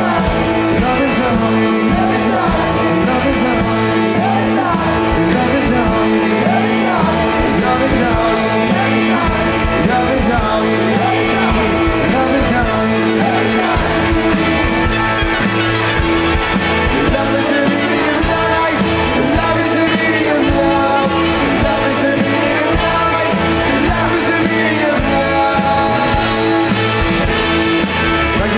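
Live rock band playing: guitars, bass and drums in a steady, dense instrumental passage, with some singing in the mix.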